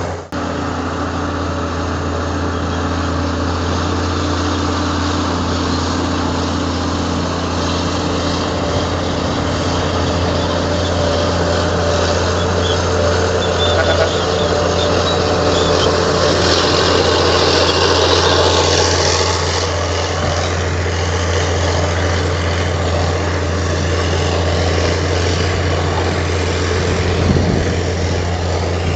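Heavy earthmoving machinery's diesel engine running steadily with a low, even drone. A hiss rises briefly about two-thirds of the way through, and there is a single short knock near the end.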